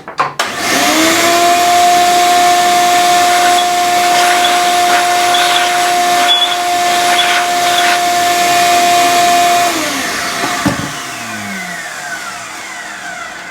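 Vacuum cleaner switched on, running with a steady whine for about nine seconds while clearing metal shavings from a freshly drilled and tapped bolt hole, then switched off and winding down with a falling pitch.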